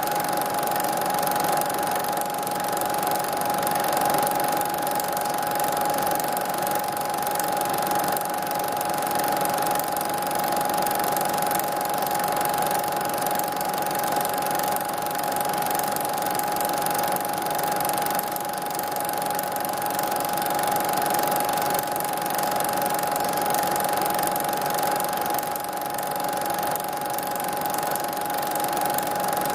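Steady mechanical running noise: a constant hum with hiss, unchanging throughout.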